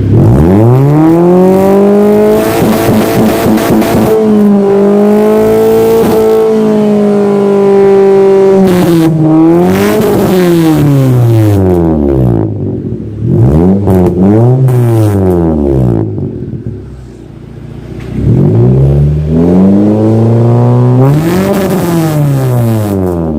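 Suzuki Baleno engine revved hard through an aftermarket HKS rainbow-finish muffler with the centre muffler removed. It holds one long high rev, then a few quick blips, then a second long rev, each time falling back toward idle.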